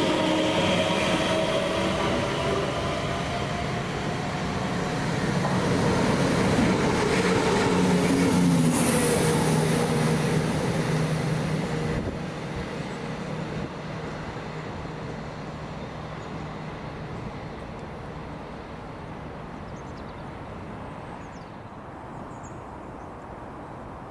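Passenger train passing along the track, with tones sliding down in pitch over the first few seconds. Its running noise is loudest about eight seconds in, then fades away as it departs.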